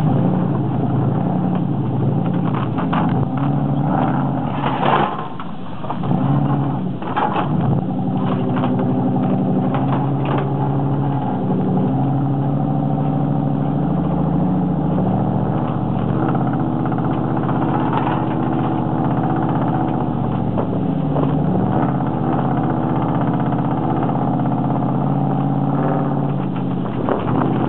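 Dodge 318 V8 engine running under load, revving up and down for the first several seconds and then holding a steady pitch. A few brief knocks are heard in the first ten seconds or so.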